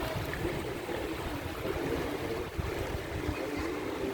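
Wind buffeting the microphone on a small boat, over the wash and slosh of water around the hull.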